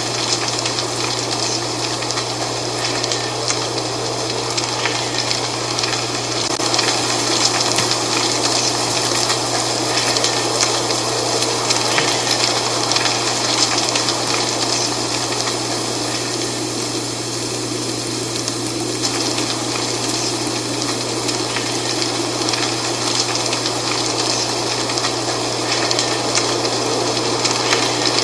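Dry fall leaves rustling in a steady wind: a continuous hiss full of fine crackles that swells and eases a little, over a steady low hum.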